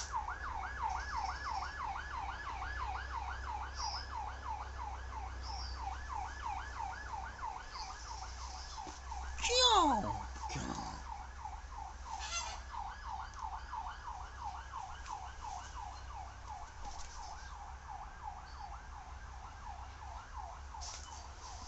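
Animal calls: a fast, even run of chirps, each rising and falling in pitch, about three or four a second and unbroken. About halfway through, one loud call sweeps steeply down in pitch.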